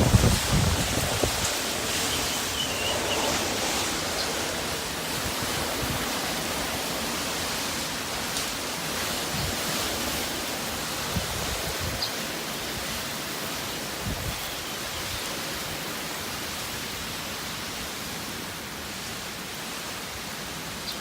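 Typhoon storm wind with rain: a steady rushing noise, with heavy gusts buffeting the microphone at the start.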